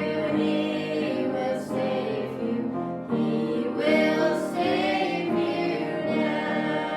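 Choral gospel-style music: several voices singing held, vibrato notes over instrumental accompaniment.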